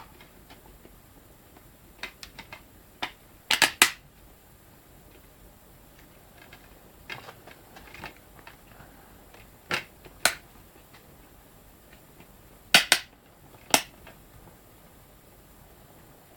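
Sharp clicks and snaps from handling the packaging of a DVD box set, coming in small clusters with pauses of a few seconds between them.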